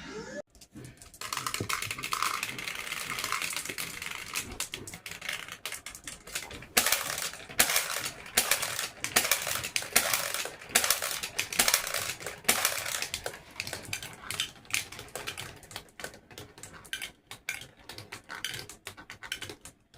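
Irregular clattering and clicking of small hard objects knocking together, busiest and loudest in the middle.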